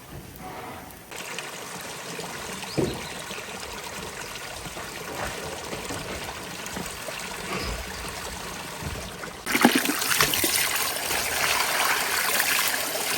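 Water running or trickling steadily, with a few light knocks, and a sudden jump in loudness about nine and a half seconds in.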